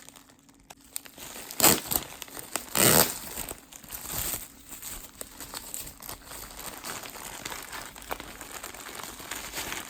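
Packaging crinkling and rustling as a mail package is handled and torn open, with two louder rips or crumples about two and three seconds in.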